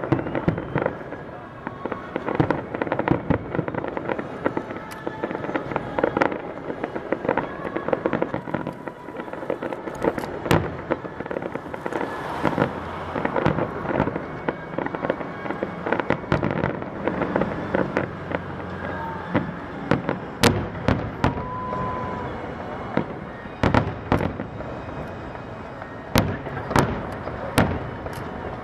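Fireworks display: aerial shells bursting in quick succession with dense popping and crackling. The sharpest, loudest bangs come in the second half.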